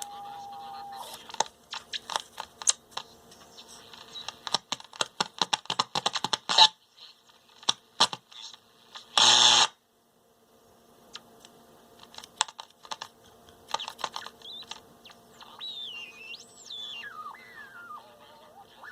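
Heathkit GR-151B six-transistor radio's speaker crackling and popping in irregular clicks, with a steady whistle in the first second, a loud burst of static about nine seconds in, and a whistle that swoops up and down near the end. The squealing is regenerative oscillation in the set, which the repairer suspects may come from a grounding problem.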